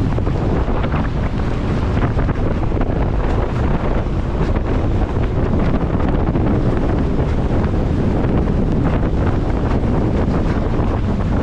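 Heavy wind buffeting the microphone while moving fast across the water behind a Sea-Doo Spark Trixx jet ski, mixed with the rush of water and the running jet ski.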